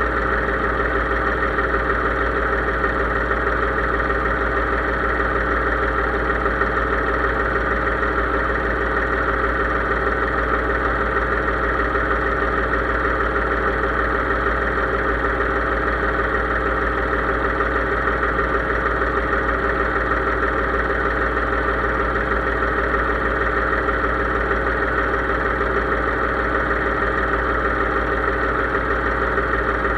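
Case IH 3220 tractor's diesel engine running steadily at a constant speed, with no change in pitch or load.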